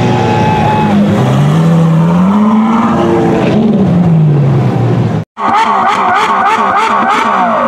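Ferrari F12 Berlinetta's 6.3-litre V12 through an iPE exhaust, pulling away under load. The engine note climbs, then falls away as the car drives off. The sound cuts off about five seconds in, and short outro music with a steady beat follows.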